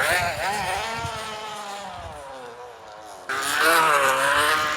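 A flattened plastic water bottle held against a bicycle's spokes buzzes like a dirt bike engine. Its pitch drifts up and down with wheel speed. About three seconds in it suddenly gets louder.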